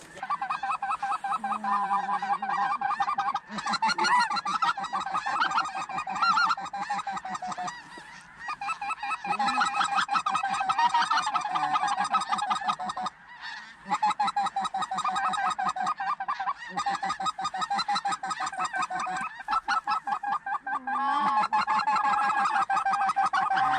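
A large flock of snow geese calling: a dense, unbroken chorus of high honks that stops short for a moment a few times.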